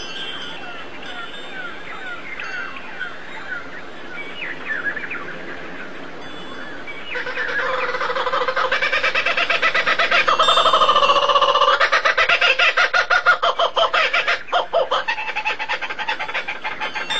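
Birds calling: a run of short, falling chirps about twice a second, then about seven seconds in a much louder call that pulses rapidly and lasts around eight seconds before fading.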